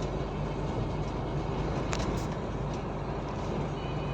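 Steady engine drone and road noise inside a moving truck's cab, with a light click about halfway through.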